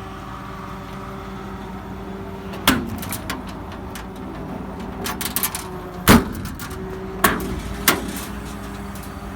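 Truck engine idling with a steady hum, and a few sharp knocks and clicks over it, the loudest about six seconds in.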